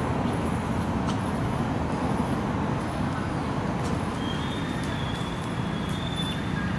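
Steady low outdoor rumble with no clear pattern. For about two seconds near the end a thin, high, steady whistle-like tone sounds faintly over it.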